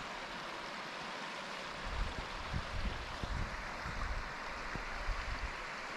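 Creek water rushing steadily, with irregular low thumps from about two seconds in.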